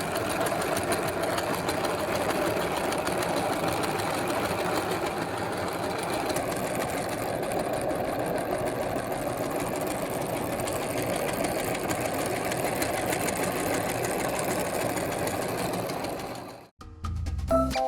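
Electric meat grinder running steadily under load as it grinds bubble gum, its motor and auger making a dense, even mechanical whir that cuts off suddenly near the end. Music with a beat starts right after.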